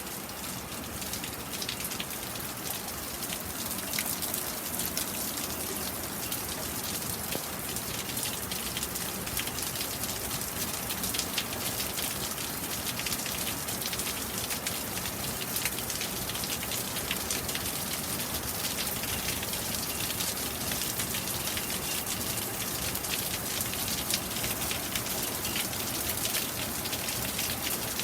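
Steady thunderstorm rain: a dense hiss of falling rain with the fine patter of individual drops hitting a surface.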